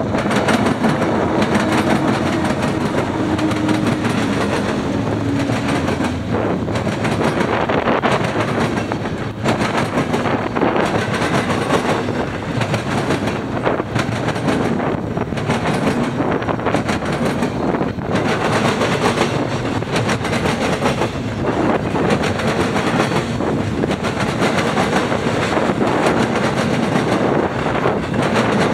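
Freight train rolling past close by: a continuous loud rumble of wheels on rail with steady clickety-clack from the wheels crossing rail joints.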